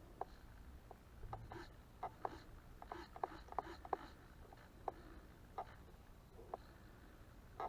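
Servos of a small electric RC plane giving short, irregular buzzes as the control surfaces are moved back and forth in a pre-flight control check, faint over a low rumble.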